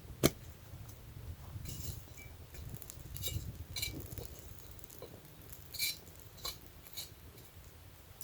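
Cookware and utensils clinking and knocking: one sharp knock just after the start, then a scattering of lighter clinks.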